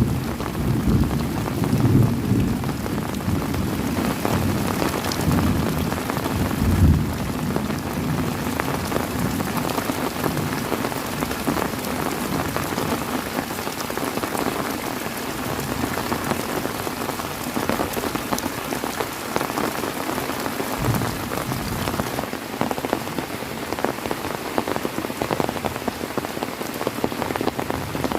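Heavy rain falling steadily, with a low rumble of thunder through the first seven seconds or so that then fades out, leaving the rain alone.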